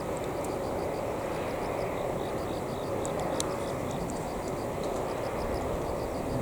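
A steady low vehicle rumble, with a faint, fast, high-pitched chirping pattern going on and a few light clicks about three seconds in.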